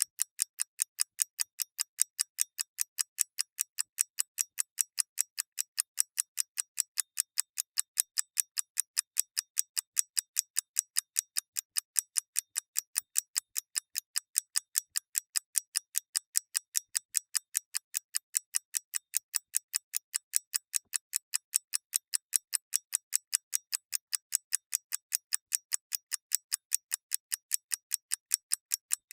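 Mechanical clockwork ticking: fast, even, crisp ticks, several a second, with no pause.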